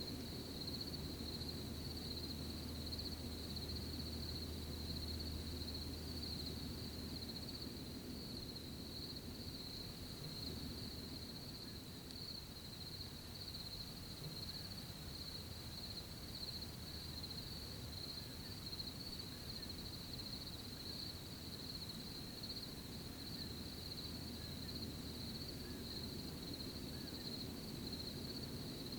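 Steady high-pitched chorus of crickets trilling without a break, over a soft low rumble.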